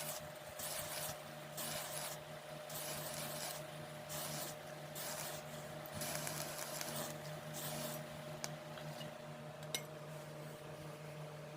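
Hand file or rasp worked back and forth in steady strokes, a little more than one stroke a second, over a steady low hum.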